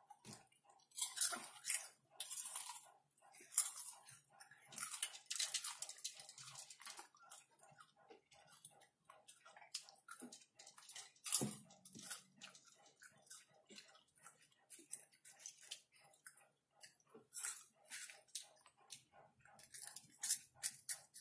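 Close-miked crunching and chewing of caramel popcorn, coming in bursts of a second or two. A faint even ticking, about three a second, runs underneath.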